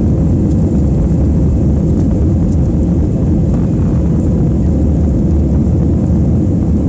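Airbus A320 jet engines and airflow heard from inside the passenger cabin: a steady, loud, deep noise with a faint high whine above it.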